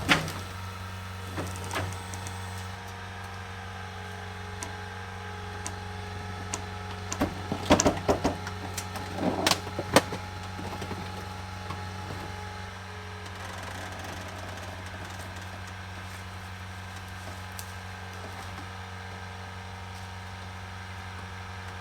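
A steady low mechanical hum from a running motor, with a cluster of sharp knocks and clanks between about seven and ten seconds in.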